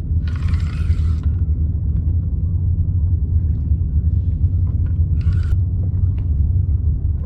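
Wind buffeting the camera microphone on open water, a loud steady low rumble. Two short hissing bursts cut across it, one near the start and one about five seconds in.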